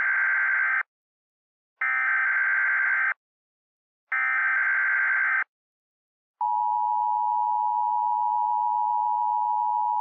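Emergency Alert System SAME header: three short bursts of buzzing digital data tones, one about every two seconds. About six seconds in, the steady two-tone EAS attention signal begins, announcing a new alert.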